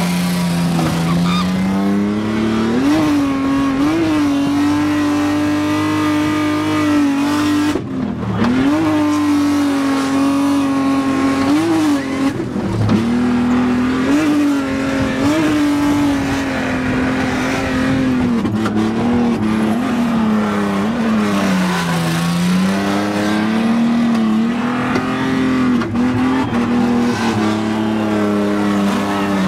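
A BMW E46 drift car's engine is held at high revs while drifting, the pitch dropping and climbing again many times as the driver works the throttle. Tyre squeal runs under it.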